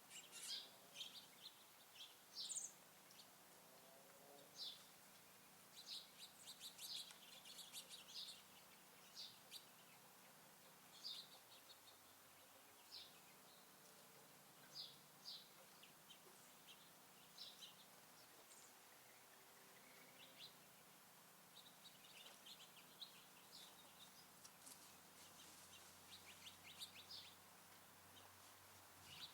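Small songbirds chirping faintly: short high calls and brief trills every second or so, over a low steady hiss.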